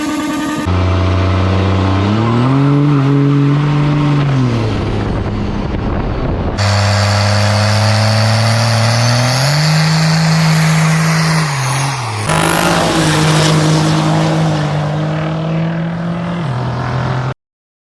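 A motorcycle engine powering a car, loud, revving up, holding and dropping back several times. The clips are joined with abrupt cuts, and the sound cuts off to silence shortly before the end.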